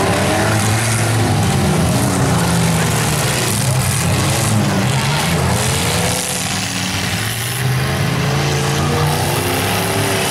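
Engines of several full-size demolition derby cars running and revving together, their pitches rising and falling, over steady crowd noise.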